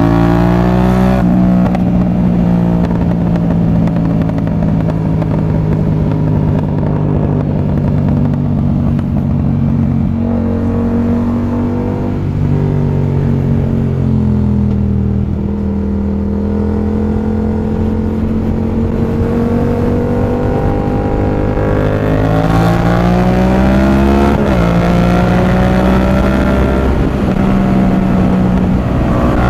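Yamaha MT-07's CP2 parallel-twin engine through an aftermarket exhaust, running under way. Its pitch rises and falls as the throttle is opened and eased, with a sudden drop in pitch about 24 seconds in, like a gear change.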